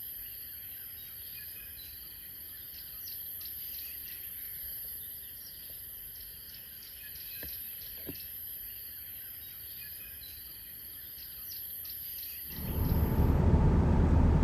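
Morning chorus of many birds calling in the bush, with short chirps overlapping over a steady high-pitched insect trill. About twelve and a half seconds in, the chorus gives way to a louder low rumble.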